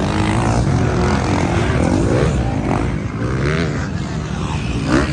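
Several motocross bikes running on the track, their engine pitch rising and falling as riders work the throttle and shift. One bike revs up louder near the end.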